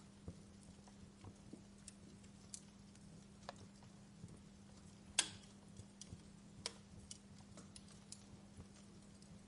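Wood fire crackling: irregular sharp pops and snaps over a faint steady hiss and a low hum. A louder pop comes about five seconds in and another about a second and a half later.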